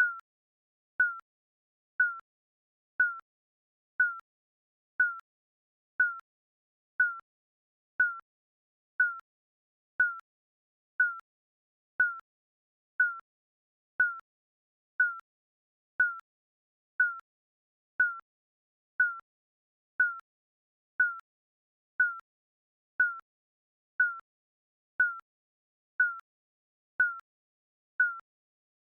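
Digital countdown timer beeping once a second: a short, high electronic beep that dips slightly in pitch, with silence between beeps.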